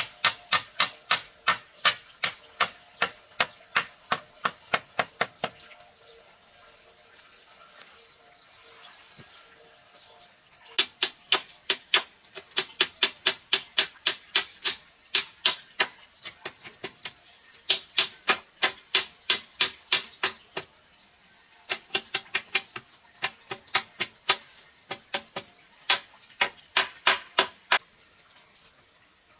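Runs of quick, even hammer blows on wood, about two to three a second, with pauses between the runs. A steady high insect drone goes on underneath.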